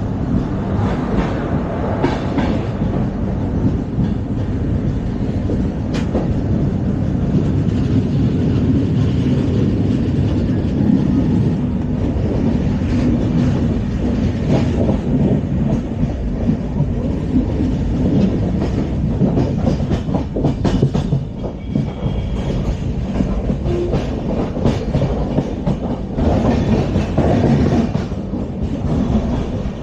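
LHB passenger coach running at speed along the track: a steady rolling rumble with scattered clicks as the wheels cross rail joints.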